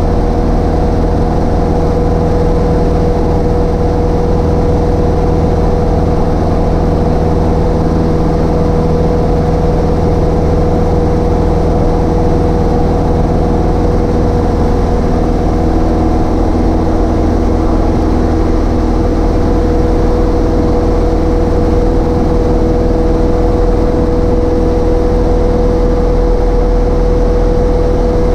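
Cessna 152's four-cylinder Lycoming engine and propeller running steadily, a constant loud drone with a steady hum in it.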